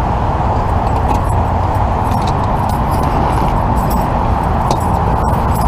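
Push broom sweeping crash debris on the road surface, with scattered light scrapes and clinks, over a steady loud rumble of traffic and engines.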